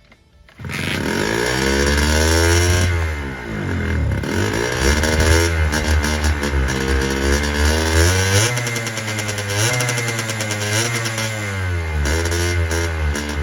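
Honda NSR50's 49 cc two-stroke single-cylinder engine running on a faulty carburetor, its revs rising and falling over and over. It comes in suddenly less than a second in.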